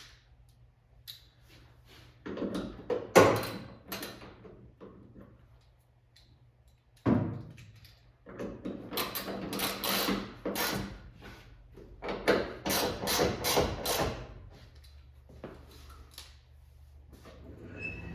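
Clunks and knocks from a car's trunk lid being handled and lowered while its fit is adjusted, the loudest about three seconds in, then two clusters of quick knocks later on.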